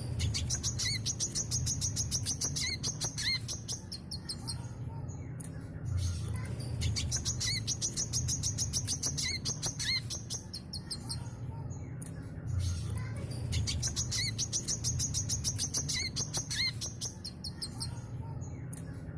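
Brown-throated sunbird (kolibri kelapa) singing a long, rapid, high-pitched twittering song in bursts of about four to five seconds, each followed by a short break, three times over. A low hum runs underneath.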